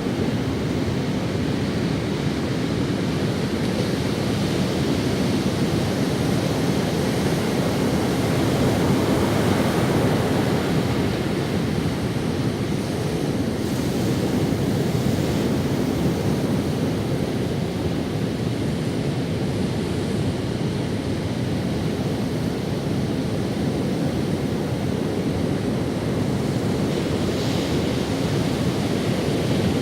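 Ocean waves washing onto a sandy beach: a steady surf noise, deepest in the low end, swelling gently and easing without breaks, with some wind on the microphone.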